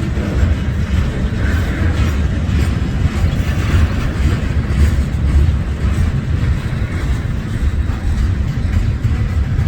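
Train passing, a steady loud rumble of wheels on the rails.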